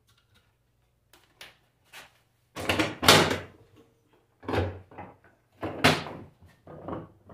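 Irregular knocks and scrapes of objects being handled and moved on a workbench, about eight in all, the loudest and longest about three seconds in, over a faint steady low hum.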